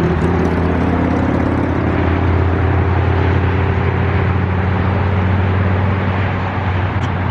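Engine running steadily at idle: a loud, low, even drone that does not change in pitch, over a rushing noise.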